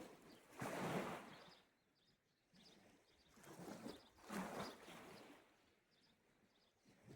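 Small sea waves washing onto the shore: two soft swells of surf a few seconds apart.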